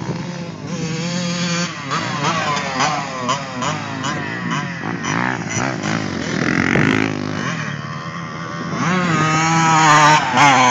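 Motocross bikes' engines revving up and down, several at once, as they ride the track. The sound is loudest near the end.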